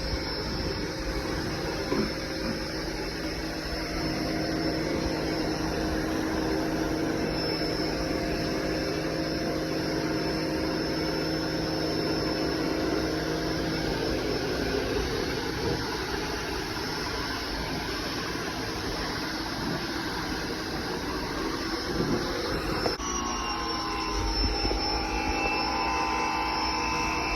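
Electric pressure washer running steadily with a motor-and-pump drone. The sound changes abruptly about 23 s in, to a drone at different pitches.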